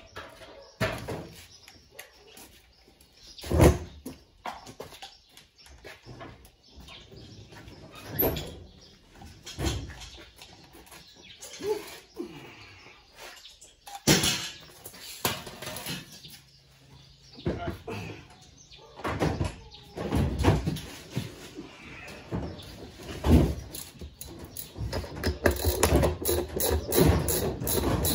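Irregular knocks, clicks and scrapes of washing-machine parts being handled during disassembly. The clatter grows denser over the last few seconds.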